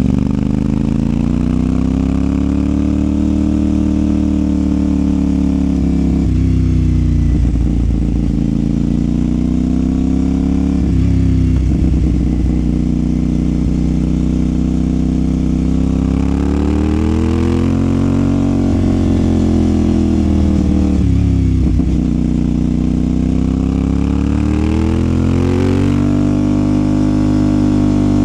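CFMOTO 450SR's parallel-twin engine and exhaust running under way, the revs climbing and easing off with the throttle. The pitch drops suddenly several times as the rider shifts gears.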